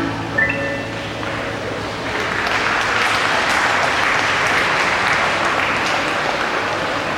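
Audience applause after a song: the last pitched notes of the music die away, then clapping rises about a second in and tapers off toward the end.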